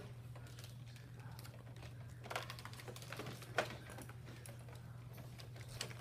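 A few faint, sharp clicks and light taps, scattered irregularly, over a low steady hum.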